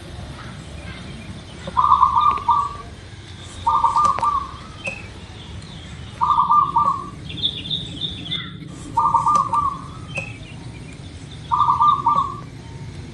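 Zebra dove (perkutut) cooing: five short, rapidly pulsed coo phrases a couple of seconds apart. Other small birds chirp faintly above it, over a steady low hiss.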